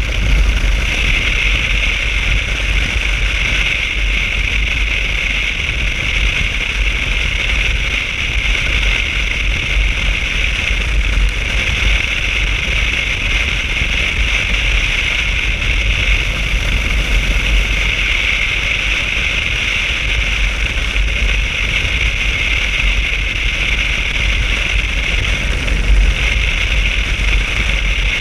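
Motorcycle riding at a steady speed: constant wind rush and engine and road noise, with a deep rumble and a hissing band held even throughout.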